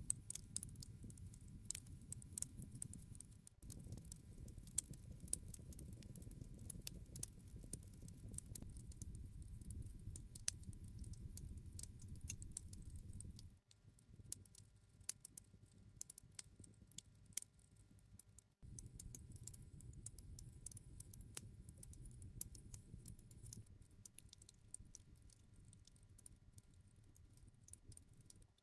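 Wood campfire crackling: a quick scatter of small pops and snaps over a low, steady rumble of flames. The sound shifts abruptly three times, as if separate stretches of recording are joined.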